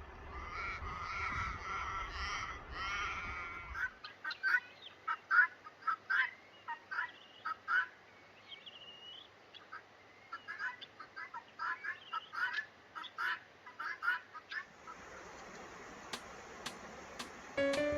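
Harsh, crow-like bird calls: drawn-out wavering caws for the first few seconds, then, after an abrupt change, a long series of short, sharp calls repeated several times a second with brief pauses.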